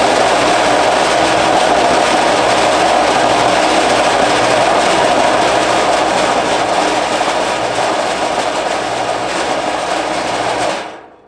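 Old air compressor running very loud, rattling hard inside the big box around it as it builds pressure, sounding like it's going to rattle itself to death. The noise stops near the end.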